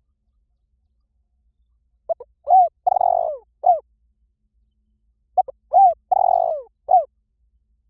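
Spotted dove cooing: its call phrase twice, a little over three seconds apart. Each phrase is a couple of short coos, then a longer rolling note that falls in pitch, then a last coo.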